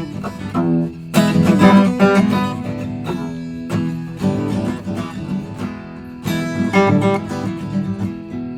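Acoustic guitar strummed and plucked, chords with sharp attacks ringing out.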